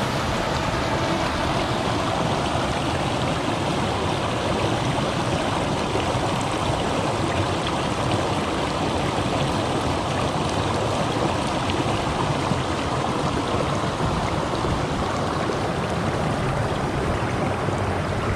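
Creek water running with a steady rush.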